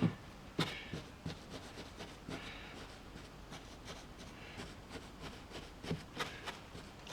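Quiet handling sounds: scattered soft taps and knocks with light rubbing and rustling as glue-soaked toilet paper is pressed and worked onto foam scenery.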